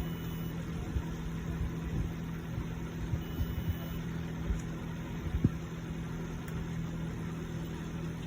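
A steady low electrical hum runs throughout. A multimeter's continuity beeper gives two short, faint high beeps, one at the start and one about three seconds in.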